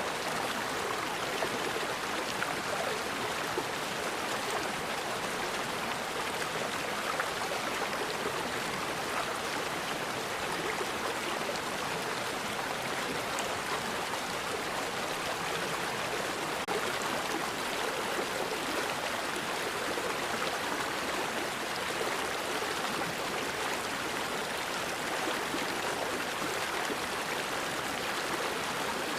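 A forest river flowing steadily, its water rushing over rocks in an even, unbroken wash.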